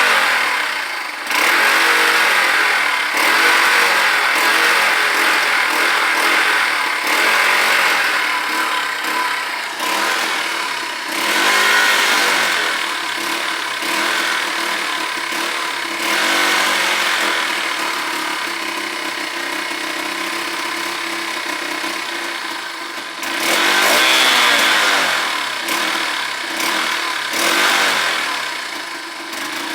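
1990 80R dirt bike engine running, the throttle blipped again and again so the revs rise and fall, with a steadier stretch about two-thirds through before a few more revs near the end.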